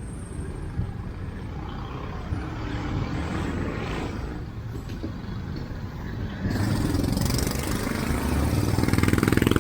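Motor vehicle's engine running close by, with a hiss that grows much louder over the last three seconds.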